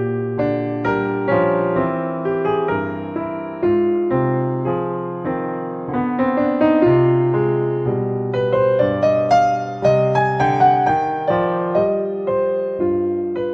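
Gentle piano music: a steady run of single notes over sustained low chords, each note struck and fading.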